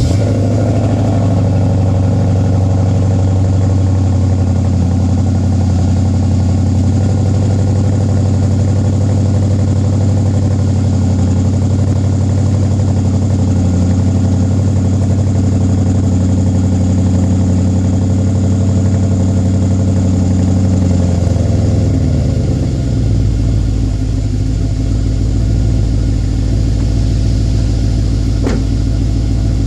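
BMW X5 50i's twin-turbo 4.4-litre V8 running at a fast cold-start idle just after starting. About twenty seconds in, the idle drops to a lower speed and carries on steadily.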